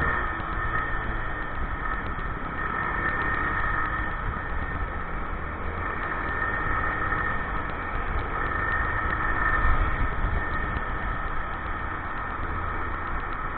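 Motorcycle engine running steadily, heard from the rider's position, with a continuous low rumble and a steady high whine.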